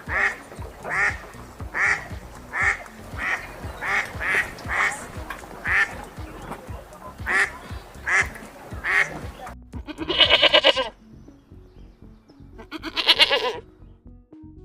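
Duck quacking repeatedly, about a dozen short quacks roughly once a second. After an abrupt change about ten seconds in come two longer, wavering bleats.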